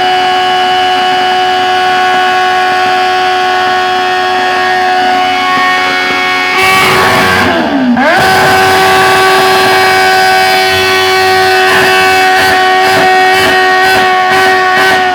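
Suzuki motorcycle engine held at sustained high revs, a steady high-pitched note. About seven seconds in, the revs drop briefly with a rush of hiss and climb straight back, then hold steady again. The engine is being over-revved, the abuse after which the bike's exhaust catches fire.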